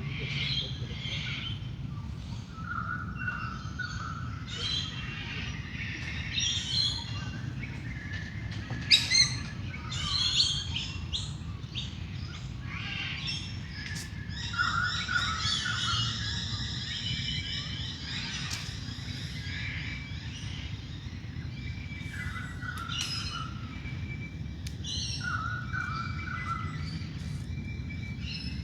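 Dawn chorus: several wild birds singing and calling at once, with chirps, whistled notes and a rapid trill about halfway through, over a steady low hum.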